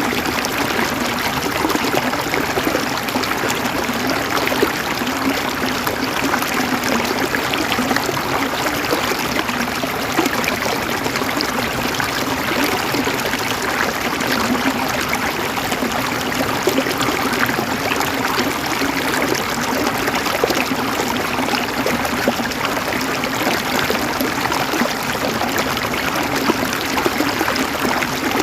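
Flowing water running steadily, an even rush without a break.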